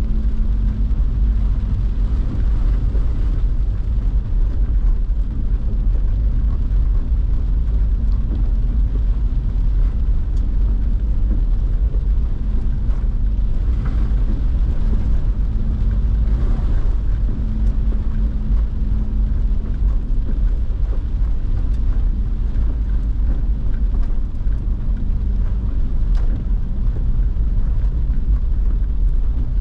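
Car driving: a steady deep rumble of road and engine noise, with a low hum that fades in and out.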